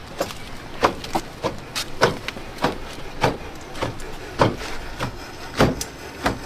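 Loud, evenly spaced bangs from the Jeep's ailing engine, about one every 0.6 s. It sounds like a marching drum line.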